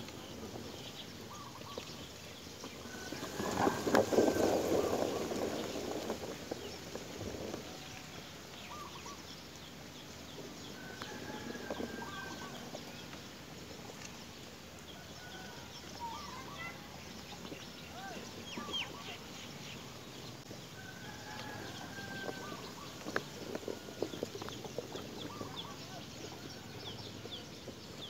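Scattered short bird calls, a few at a time, with a louder, rougher sound about four seconds in.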